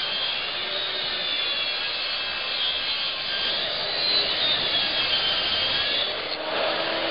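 Power track saw cutting a plywood sheet into door panels: a steady cutting noise with a wavering high whine from the blade under load. About six seconds in, the sound changes to a steadier, lower hum.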